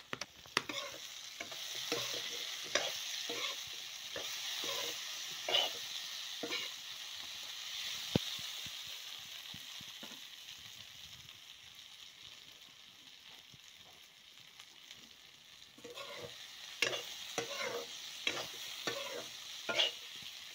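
Diced potatoes and dry Maggi noodles sizzling in oil in a kadai, with a spatula scraping and knocking against the pan as they are stirred. The sizzle eases off in the middle, and the stirring strokes come thick again near the end.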